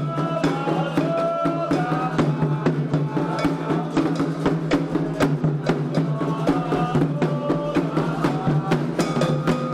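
Candomblé ritual percussion: atabaque hand drums and a struck agogô bell playing a fast, steady rhythm.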